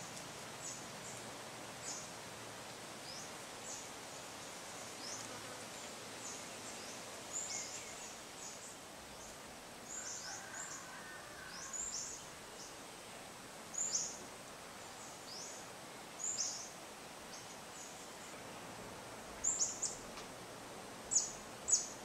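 A bird giving short, high chirps that sweep downward, roughly one a second, louder and in quick pairs near the end, over a steady hiss of insects and light wind.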